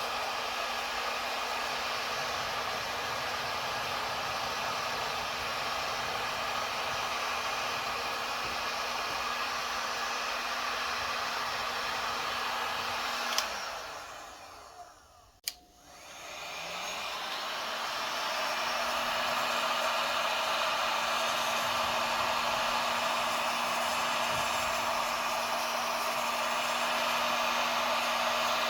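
Heat gun blowing steadily with a motor hum. About halfway through it clicks off and winds down almost to silence, then clicks back on and spins up to full blow again.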